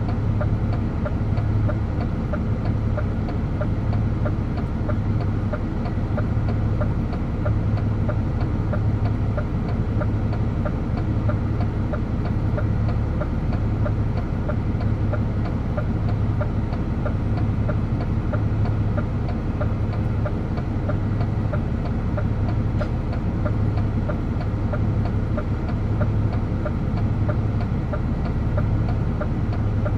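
DAF truck's diesel engine running steadily while driving, a low hum that swells and fades in a slow, regular beat.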